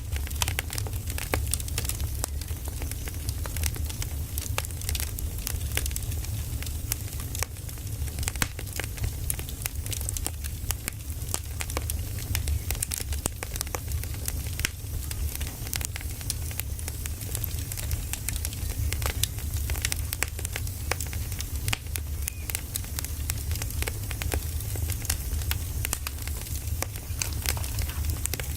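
Burning firewood crackling and popping with irregular sharp snaps, over a steady hiss and a low rumble.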